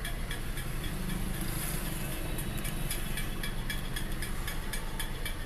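A Maruti Suzuki WagonR's K-series engine idling steadily on CNG, heard from inside the car, with a fast, light, regular ticking over the low rumble. It runs evenly, without misfiring or hunting, after its CNG wiring fault was repaired.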